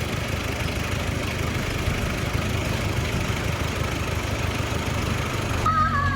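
Heavy diesel engine of earthmoving machinery, most likely a bulldozer, running steadily. Near the end the sound changes abruptly and a high tone slides down in pitch.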